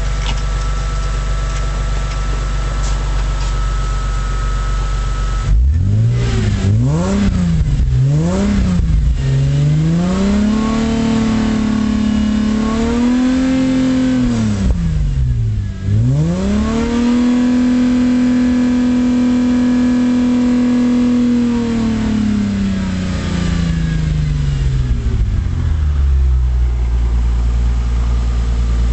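Engine with an aftermarket JASMA exhaust idling, then revved: three quick blips about six seconds in, a held rev, a brief drop, and a longer held rev that slowly falls back to idle near the end.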